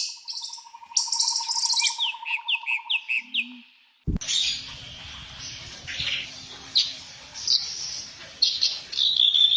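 Birds chirping. First comes a quick run of short falling notes over a steady pulsing trill; after a sudden cut about four seconds in, scattered chirps sound over a steady hiss.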